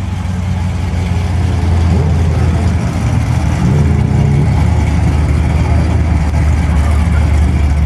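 A car engine running loud with a steady deep note; its pitch shifts briefly a couple of times.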